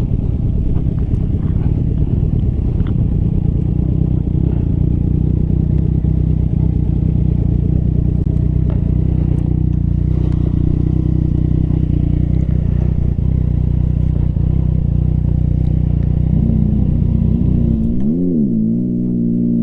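Yamaha MT-09 motorcycle engine running steadily under way at a constant pitch. Near the end its pitch rises and swings up and down as it is revved.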